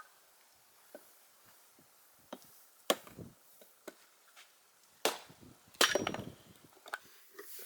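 Wood being chopped or struck: about half a dozen sharp, irregularly spaced knocks, the loudest about three seconds in and a little after five and six seconds in.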